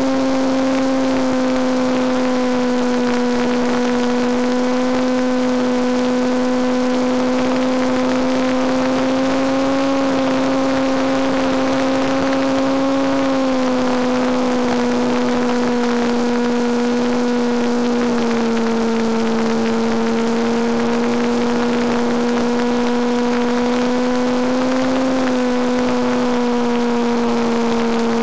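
Battery-powered electric motor and propeller of a Penguin FPV model airplane droning steadily in flight over a hiss of rushing air. The pitch dips slightly about halfway through and again a few seconds later, then rises briefly near the end as the throttle shifts.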